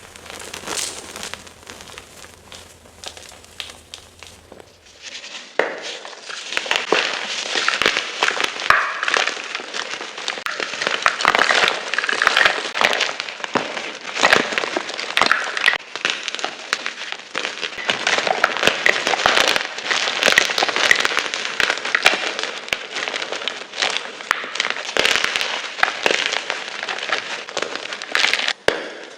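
Blocks of gym chalk being crunched and crumbled, a dense run of crackly, gritty snaps. The crunching is soft and sparse with a faint low hum at first, then becomes loud and continuous from about five seconds in.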